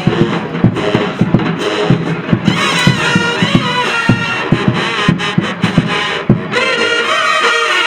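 Marching band playing: heavy drum hits, with the brass section joining in about two and a half seconds in.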